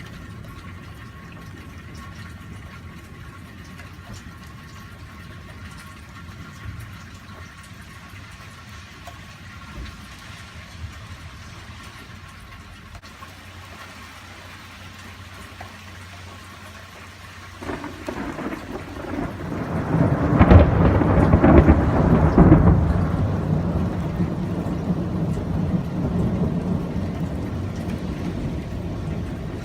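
Steady rain falling, then about 18 seconds in thunder breaks in suddenly, builds to its loudest a few seconds later and keeps rolling as a long low rumble.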